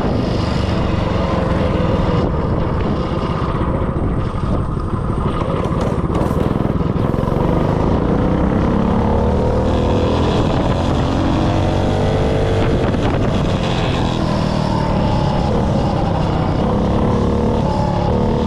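196cc single-cylinder four-stroke mini bike engine running and revving, its pitch rising and falling repeatedly as the throttle is worked.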